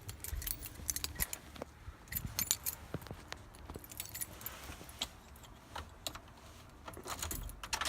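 A bunch of keys jangling and clinking in a hand, in short irregular bursts with light clicks in between.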